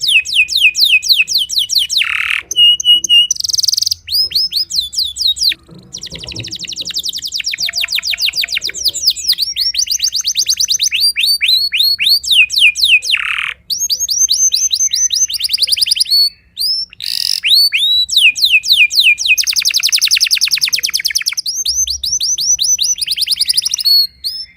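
Timbrado canary singing: long trilled phrases of rapid, repeated high falling notes, broken by a few short pauses.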